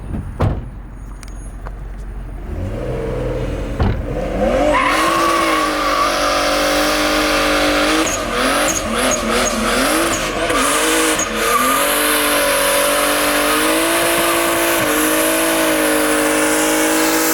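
Drift car under full throttle: the engine revs up over the first few seconds, then from about five seconds in a long, loud tire squeal with the engine held high runs on to the end.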